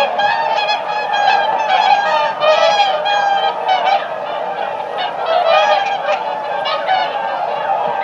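A group of swans honking over one another in a dense, unbroken chorus of many overlapping calls.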